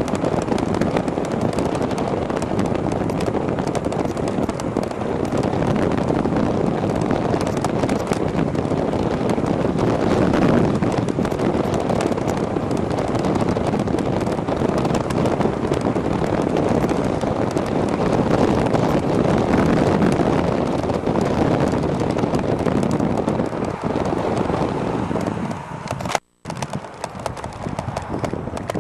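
Strong headwind buffeting the microphone of a camera mounted on a moving e-bike, with the camera rattling and knocking as it is jostled. The sound drops out briefly near the end.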